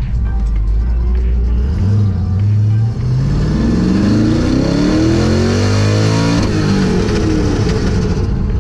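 A car engine accelerating hard. A low steady drone gives way, about three seconds in, to an engine note climbing steadily for several seconds, which then drops away.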